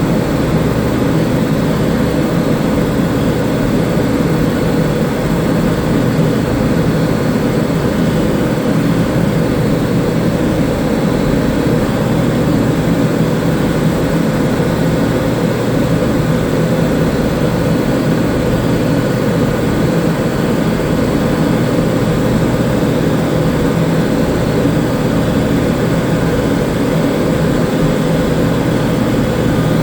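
A loud, steady mechanical drone with a low hum, unchanging in level.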